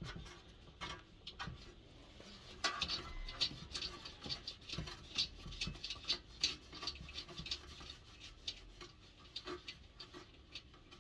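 Socket ratchet clicking in short irregular runs as a bolt on the diesel heater is worked loose by hand, mixed with small metallic taps; the clicks come thickest from about three seconds in.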